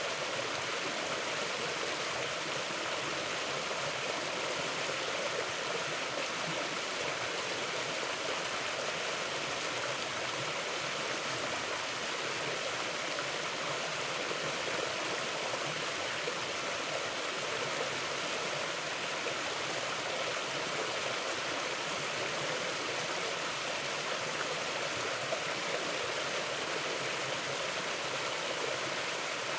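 Mountain river flowing over rocks: a steady, even rush of water with no breaks.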